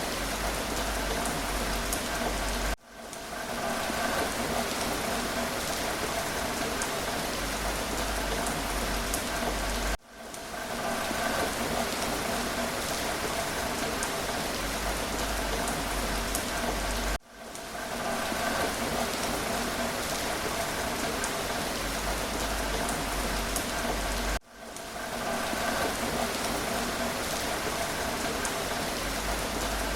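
Steady rain with faint individual drop ticks. The sound drops out suddenly and swells back within about a second, four times at roughly seven-second intervals, the seams of a short recording played on a loop.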